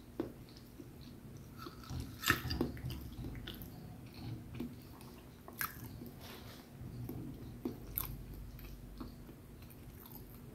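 A person chewing and biting a mouthful of food, a meal of grilled tempeh and steamed vegetables, with a few sharp clicks of a metal fork against a ceramic plate.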